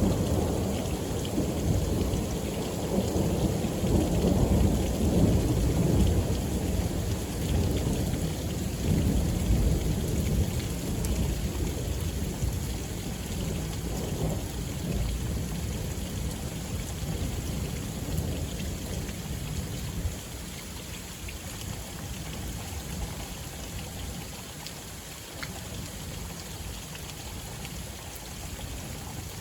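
Thunderstorm at night: a long roll of thunder rumbling and slowly dying away over about twenty seconds, with steady rain falling throughout.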